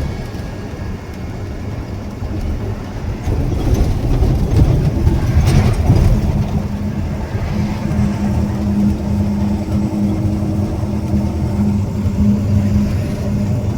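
Road vehicle running on a highway: low engine and road rumble that grows louder about four seconds in, then settles into a steady engine hum.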